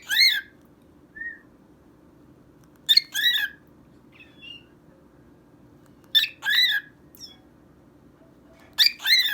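Cockatiel singing: a short sharp whistle followed by a rising-and-falling whistled note, the phrase repeated four times about every three seconds, with a few softer chirps between.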